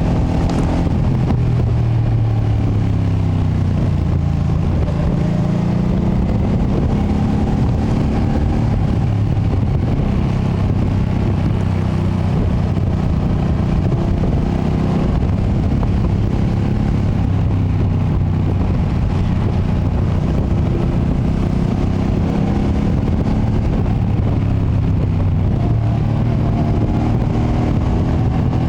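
A 2025 Ducati Panigale V2S's V-twin engine under way on its stock exhaust. Its pitch falls and climbs again several times as the throttle is eased and opened.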